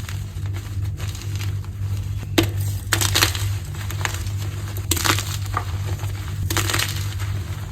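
Blocks of dyed gym chalk being crushed, giving a series of dry crunches, a few seconds apart, over a steady low hum.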